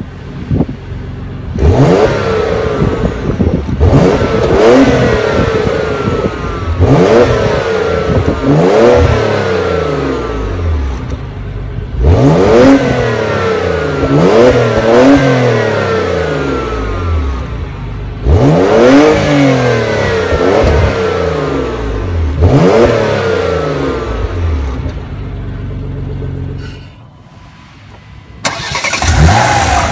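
2016 Porsche Macan Turbo's twin-turbo V6 revved again and again through its sport exhaust, Sport and Sport Plus modes engaged: about ten sharp blips that climb and fall back toward idle. Near the end the sound drops briefly, then the engine comes in loud again.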